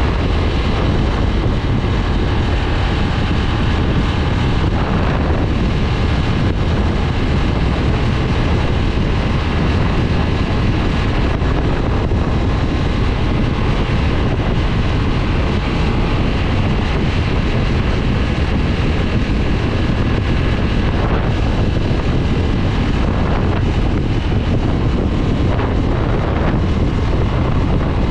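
2022 Harley-Davidson Nightster's liquid-cooled Revolution Max 975 V-twin engine and exhaust running steadily while the motorcycle is ridden, with wind buffeting the microphone.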